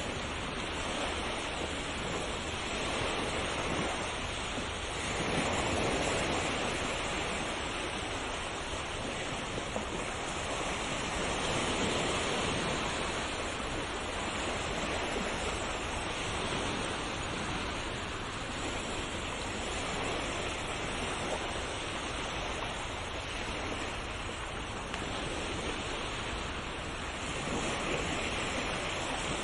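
Sea waves washing on a shore: a continuous surf hiss that swells softly as each wave comes in, every few seconds.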